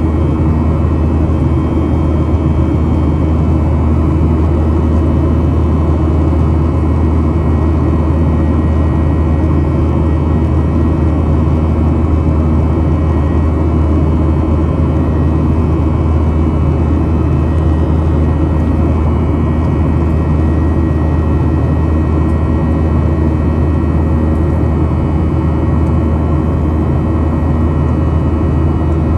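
Boeing 737-800's CFM56-7B jet engines running at steady power, a loud constant drone with a deep low hum and steady tones above it.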